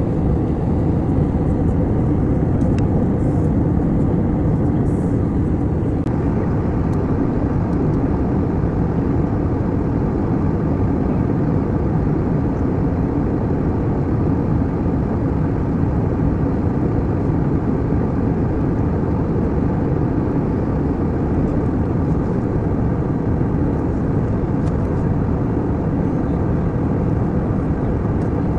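Steady engine and airflow noise inside an airliner's cabin in flight: a constant, even low noise.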